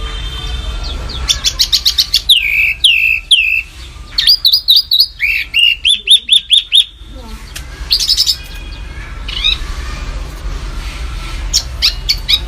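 Songbird singing in bursts of rapid, sharp repeated notes and quick down-slurred whistles, several phrases with short pauses between them.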